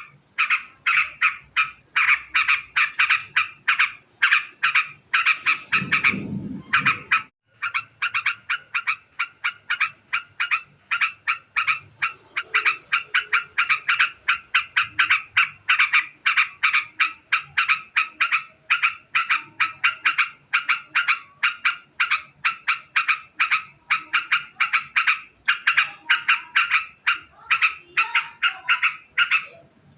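Yellow-vented bulbul (trucukan) giving a long, very fast chattering 'ngekek' call: quick repeated notes at about four a second, broken only by a short pause about seven seconds in. A low thud sounds just before that pause.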